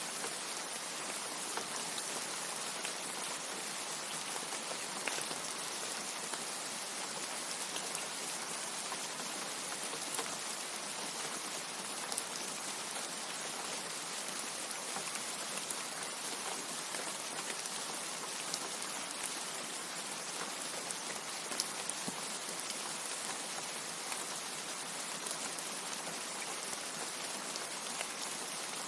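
Steady rain, an even hiss with many scattered drops ticking through it and no thunder.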